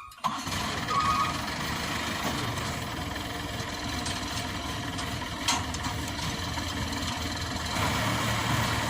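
Diesel engine running steadily at a constant speed, starting abruptly just after the beginning, with one short sharp click about five and a half seconds in.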